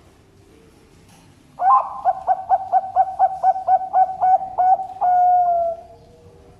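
Zebra dove (perkutut) cooing its song: about a dozen quick, even coo notes, ending in one longer note that falls slightly in pitch.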